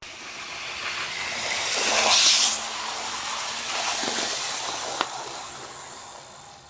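Athearn HO-scale model diesel locomotive with a flywheel motor running along the track, a whirring, hissing mix of motor and wheels on rail. It grows louder to a peak about two seconds in, then fades steadily as the locomotive coasts down. A small click comes about five seconds in.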